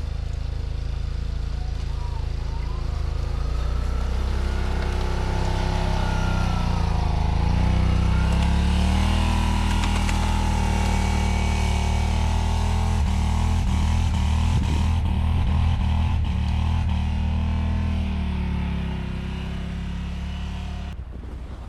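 Vehicle engine running as it drives off, its engine speed rising and falling several times.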